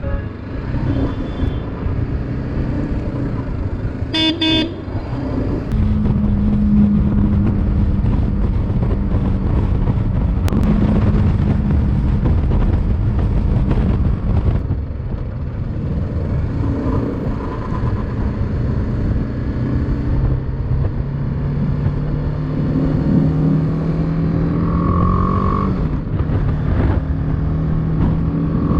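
Motorcycle running along a road, with steady engine and road noise whose pitch drifts slowly as speed changes. A vehicle horn toots once briefly about four seconds in, and a short higher beep sounds near the end.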